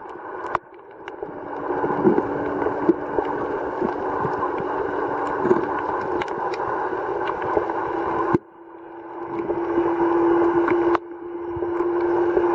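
Underwater drone of a distant boat engine, a steady hum with scattered crackling clicks. It cuts out suddenly twice and fades back in.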